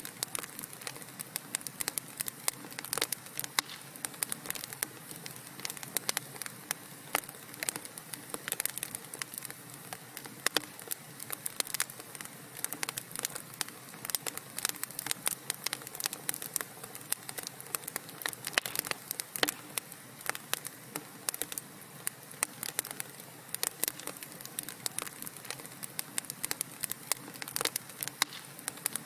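Wood fire crackling: a steady low hiss of burning with frequent irregular sharp pops and snaps.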